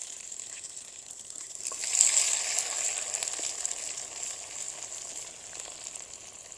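Ginger-garlic paste sizzling in hot ghee in an earthenware pot as it is stirred with a ladle; the sizzle swells about two seconds in.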